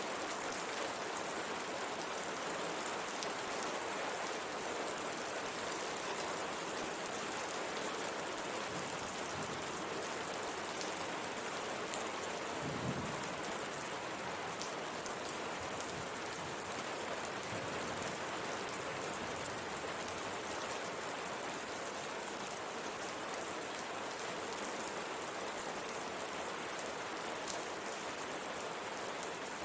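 Steady rain pattering on window glass, with scattered drop ticks over an even hiss. A brief low rumble comes about halfway through.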